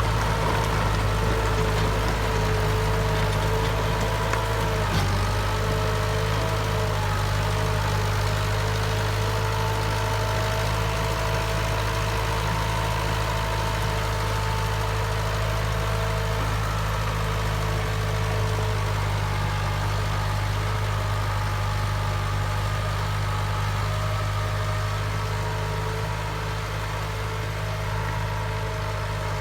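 Massey Ferguson 265 tractor's three-cylinder diesel engine running steadily with a deep, even hum, with a few higher whining tones above it, while driving a rotavator.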